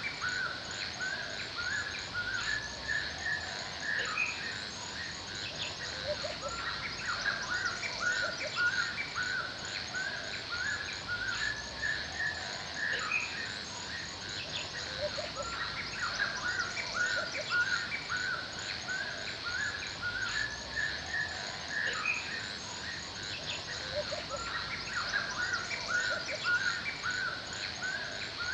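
Forest bird chorus: many birds chirping and calling over one another without pause, over a steady high-pitched hum.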